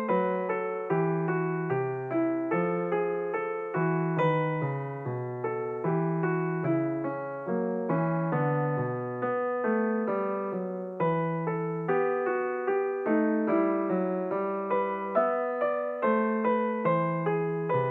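Background music: a gentle, unhurried piano or electric piano melody, notes struck about two a second and left to ring.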